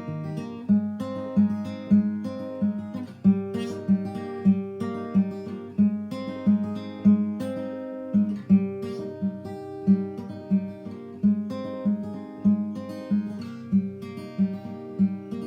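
Background music: acoustic guitar picking a gentle, regular pattern of notes.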